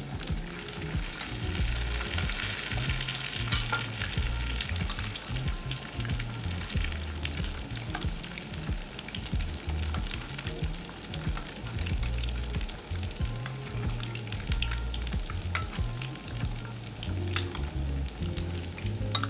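Grated-potato hash brown patties frying in hot oil and butter in a pan, sizzling steadily with frequent crackles and pops, while a spoon ladles oil over them.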